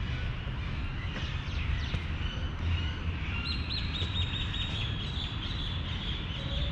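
Small birds chirping, with a quick run of short, high chirps from about halfway through, over a steady low rumble.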